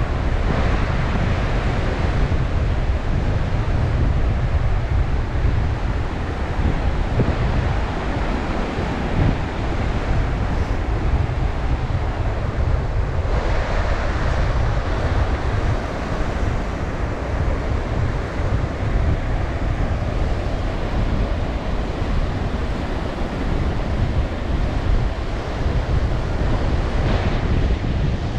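Strong wind buffeting the microphone over Baltic Sea surf breaking on the shore, the wash of the waves swelling louder now and then.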